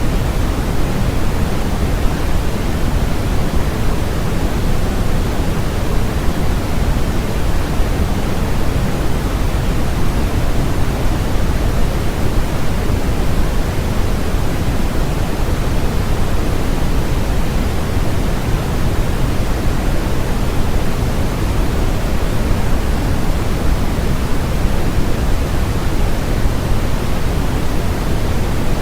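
Steady generated noise with no change, no tones and no clicks, its weight toward the low end rather than evenly spread, nearer pink noise than strict white noise.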